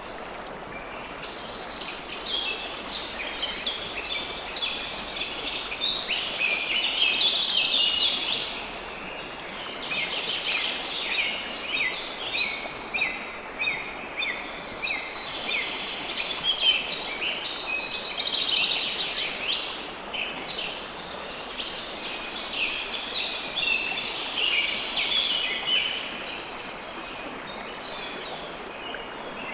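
River water flowing steadily under a busy chorus of small birds chirping, many calls overlapping; the bird calls thin out near the end.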